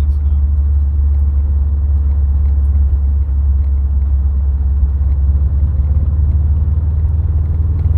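Subaru WRX STI under way, a steady, loud low rumble of engine and road noise with no change in pitch.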